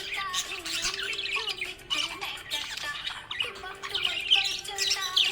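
Budgerigar chirping and chattering without pause, a fast run of short warbling calls, with steady background music underneath.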